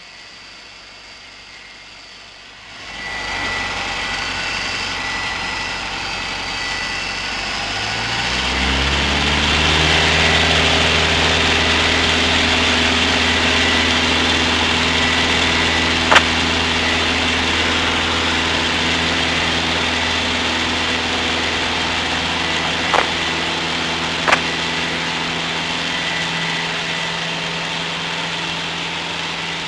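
Cessna 150's four-cylinder Continental O-200 engine going to full power for takeoff. It rises sharply after about three seconds and climbs in pitch until about nine seconds in, then runs steady and loud. A few sharp clicks sound in the second half.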